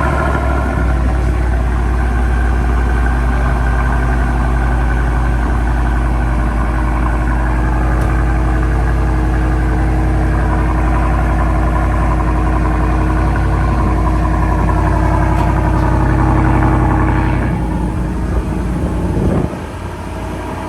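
Supercharged 5.0-litre V8 of a 2024 Shelby F-150, breathing through a Borla cat-back exhaust, idling loudly and steadily just after a cold start. The level drops off near the end.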